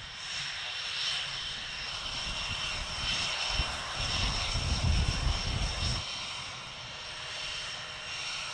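Panavia Tornado jets with RB199 engines heard at a distance, a steady jet roar with a faint high whine. A loud low buffeting rumble rises about three and a half seconds in and cuts off suddenly about six seconds in.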